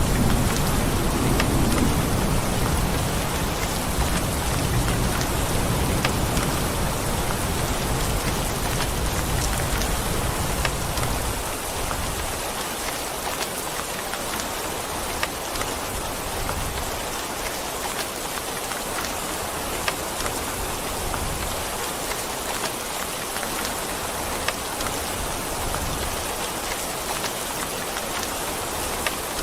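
Steady rain falling, with scattered sharper drops, and the low rumble of thunder dying away about ten seconds in.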